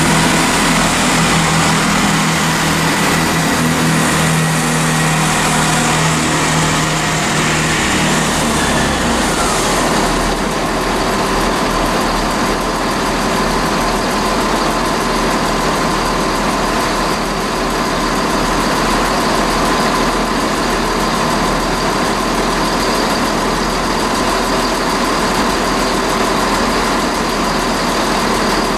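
Class 165 diesel multiple unit's underfloor diesel engines running as the train moves off. Its low engine note holds for about nine seconds, then drops away, leaving a steady engine drone with a thin, high steady tone.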